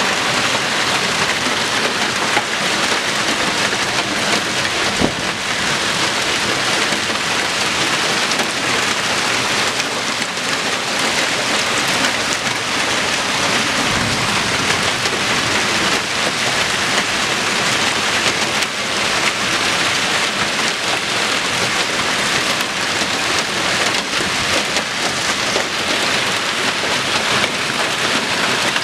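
Heavy rain pouring steadily in a thunderstorm, with a brief sharp crack about five seconds in and another near the middle.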